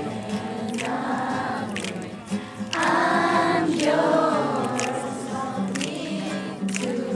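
Several people singing together, their voices loudest about three seconds in.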